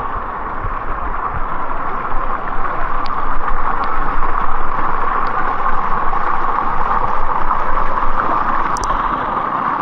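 Water rushing and gurgling steadily over the rocks of a cascading rock pool.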